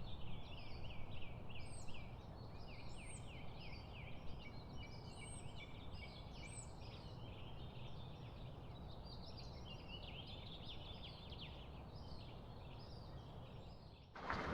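Several small birds chirping and twittering in quick overlapping calls, over a faint steady low rumble.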